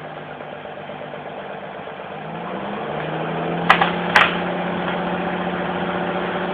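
Truck engine running steadily, then rising in pitch and growing louder about two seconds in before holding at the higher speed. Two sharp clicks come a half second apart in the middle.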